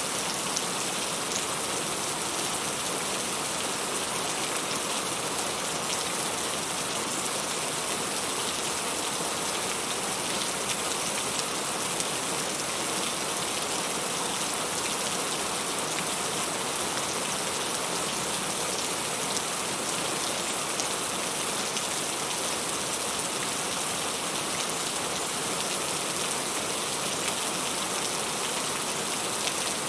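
Heavy rain falling steadily, a dense even hiss of drops with fine ticks of individual drops hitting surfaces.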